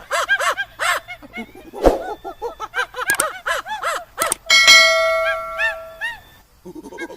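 Birds honking over and over in quick, short calls. About halfway through, a bell-like tone rings out and fades away over nearly two seconds. A brief lull follows, then the honking starts again.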